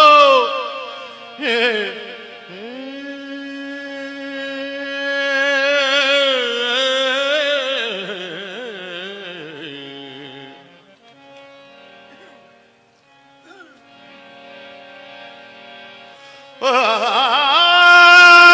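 Devotional kirtan music: long wordless sung notes that waver in pitch, over steady held instrumental notes. The music dies down to a quiet stretch midway, then a loud held passage starts abruptly near the end.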